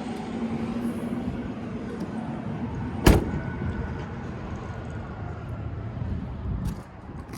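A Chevy Tahoe door shutting once with a sharp bang about three seconds in, over a steady low rumble.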